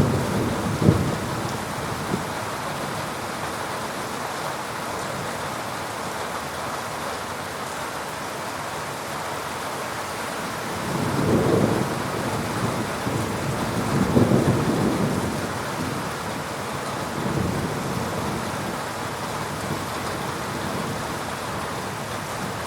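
Heavy rain falling steadily through a thunderstorm, with a sharp thunder crack about a second in, then two low rolling rumbles of thunder around the middle and a fainter one after.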